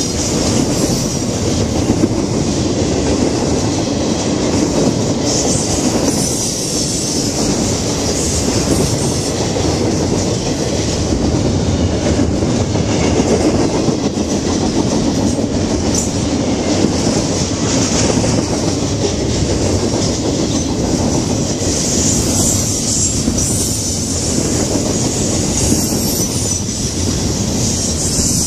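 Double-stack intermodal freight train rolling past close by: a steady rumble of steel wheels on the rails with clickety-clack over the rail joints, and a high metallic hiss from the wheels that swells a few times.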